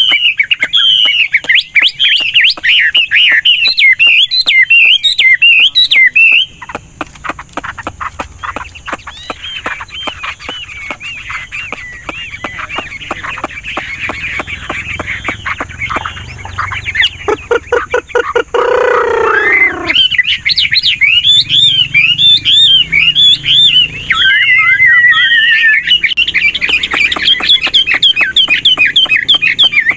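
Chinese hwamei singing without pause: loud, rapid warbling phrases that keep changing pitch and pattern, softer for a stretch in the middle, with a brief even trill later on. About two-thirds of the way through, a lower, falling call sweeps down beneath the song.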